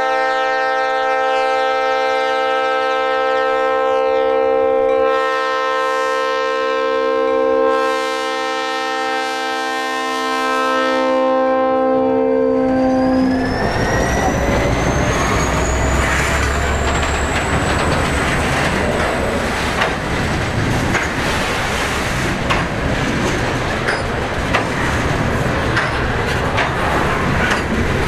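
EMD SD45T-2 diesel locomotive's air horn sounding a chord of steady tones for about the first half, cutting off partway through. It leaves the rumble of the locomotive and the rolling train, with wheels clicking over the rails and a whine rising in pitch over several seconds.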